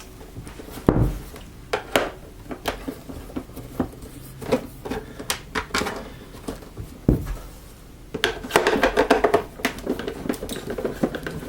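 Phillips screwdriver backing screws out of a plastic vacuum cleaner housing, with scattered clicks and knocks of the driver and the plastic shell being handled. Near the end it turns into a denser run of scraping and clicking.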